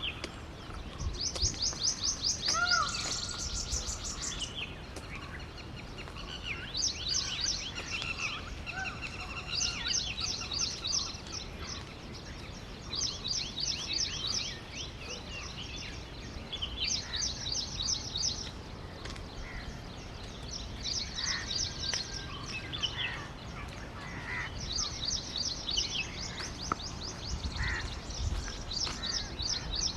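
Small birds singing: repeated bouts of rapid, high trills, each lasting a second or two, with scattered short chirps between them.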